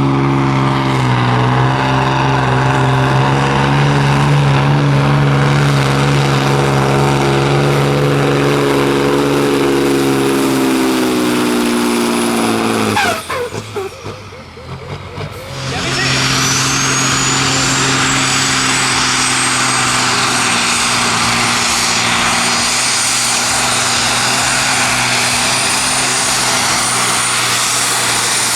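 Competition pulling tractor's engine running hard under load, its note slowly sagging in pitch as it pulls, then cutting out about thirteen seconds in. After a short lull another pulling tractor runs loud, with a high whine that climbs and then holds steady.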